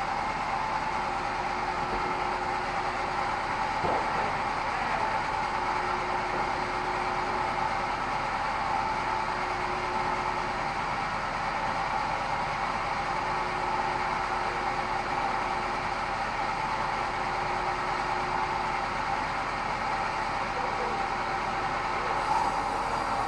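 Sawmill bandsaw running steadily, a constant machine whine over a fainter lower hum.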